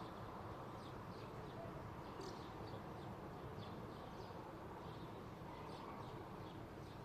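Small birds chirping faintly, a scatter of short, quickly falling high notes, over a steady low background hum.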